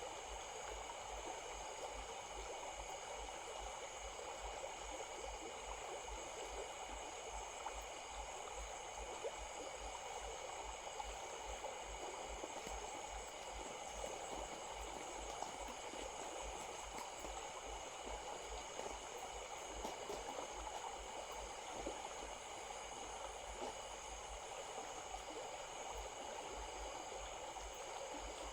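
A small stream running steadily, an even, unbroken rush of water.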